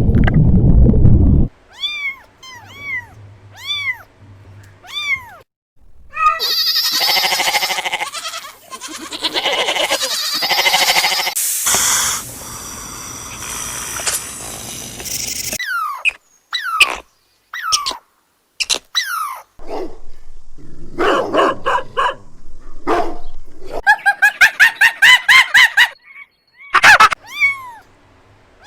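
A string of different animal calls, one kind after another with short gaps. It begins with short arched calls, then a long loud noisy stretch, then falling calls and a fast run of repeated calls.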